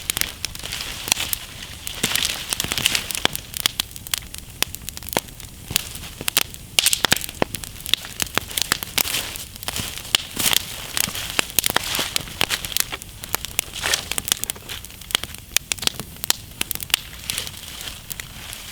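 Wood campfire crackling: dense, irregular sharp snaps and pops over a steady hiss of flames. The fire is still catching.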